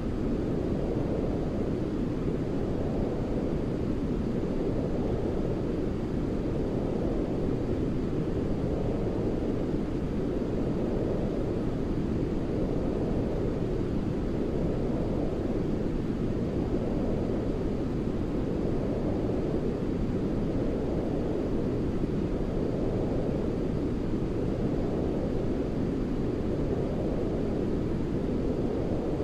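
Steady, deep rushing white-noise track for soothing a baby to sleep, weighted toward the low end. It swells and ebbs gently about every two and a half seconds.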